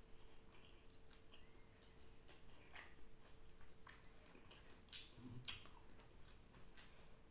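Faint mouth sounds of eating rice and curry by hand: scattered wet smacks and small sharp clicks of chewing, two of them louder about five seconds in, over a faint steady hum.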